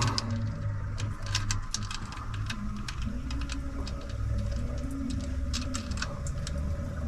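Scattered small clicks and light taps from hand work on a Holley carburettor's float bowl, over a steady low hum.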